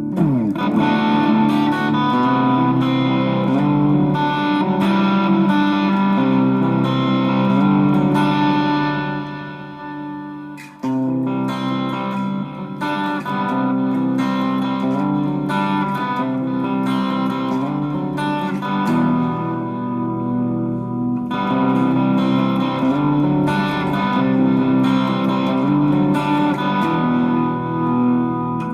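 Electric guitar with a treble bleed circuit on its volume pot and an Orange Drop tone capacitor, played through an amp in picked chords and riffs. About ten seconds in the playing dies away, then a sharp strike brings it back in.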